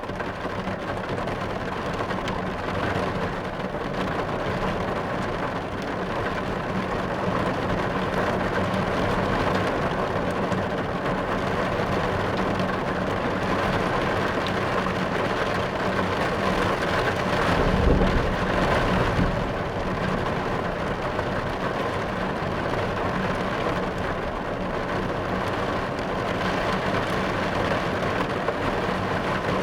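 Heavy rain drumming steadily on a car's roof and windows, heard from inside the car, with a low roll of thunder about two-thirds of the way through.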